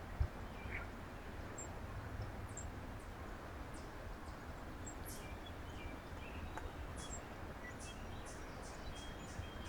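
Small birds at a feeder chirping faintly, with short, very high-pitched chirps that come more often in the second half, over a steady low outdoor background rumble.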